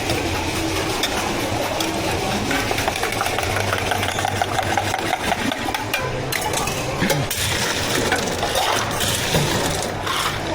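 Steady low machine hum with frequent clinks, knocks and clatter from drink-making work at a bubble tea counter.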